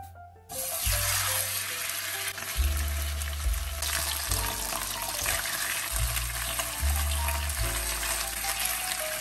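Food sizzling in hot oil in a pan. The sizzle starts suddenly about half a second in, as food goes into the oil, and keeps on steadily.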